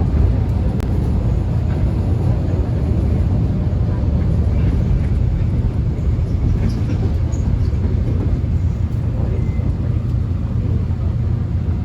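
Interior of a Korean subway car: the train's steady low rumble as it runs, heard from inside the cabin.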